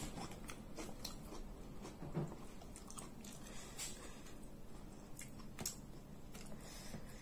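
Close-miked chewing of soft fish and steamed cassava rice, with irregular wet mouth clicks and lip smacks throughout.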